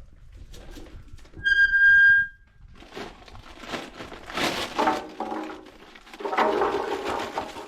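A single loud, steady electronic beep lasting just under a second, followed by music.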